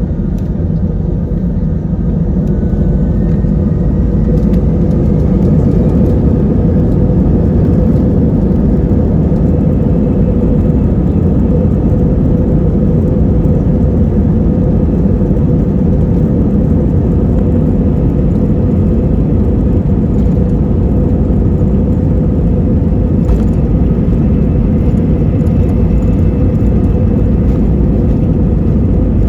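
Airbus A320-200 heard from the economy cabin: engines and airflow as a loud, steady rumble with a constant hum. In the first few seconds it grows a little louder and a faint whine rises in pitch, then it holds steady.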